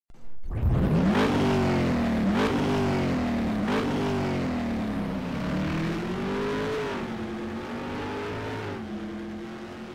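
Car engine accelerating hard through the gears: the pitch climbs, drops back twice at quick upshifts with a short crack at each, then settles into a steadier drone that slowly fades.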